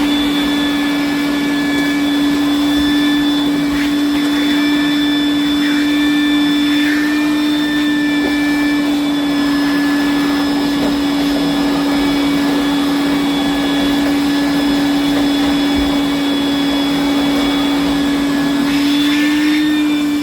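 Shop vacuum running steadily, sucking out a clogged condensate drain line; its pitch rises slightly near the end.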